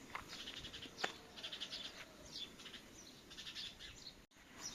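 Birds singing, with repeated fast high trills and short chirps, and one sharp click about a second in. The sound drops out briefly near the end.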